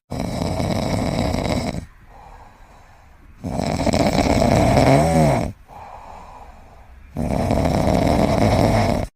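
A sleeping pet snoring: three long, loud snores with quieter in-breaths between them, the middle one carrying a whistling note that rises and falls.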